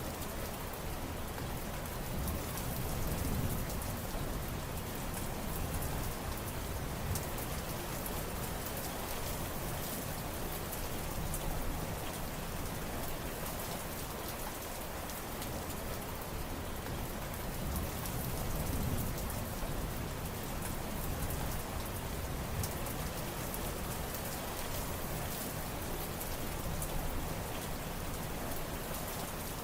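Steady rain: a dense hiss of drops with many fine individual drop ticks. A low rumble swells up twice, once a few seconds in and again past the middle.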